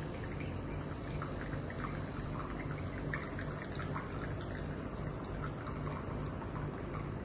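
Arissto capsule coffee machine dispensing water into a cup while its big button is held to set the cup volume: a steady low pump hum with water pouring and splashing.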